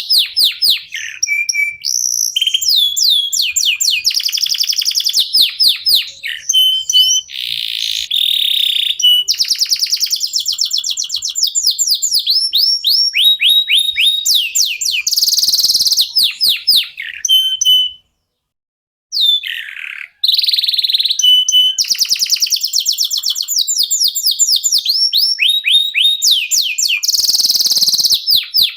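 Domestic canaries singing: fast rolling trills and rapid runs of repeated downward-sweeping notes, breaking off for about a second just past the middle.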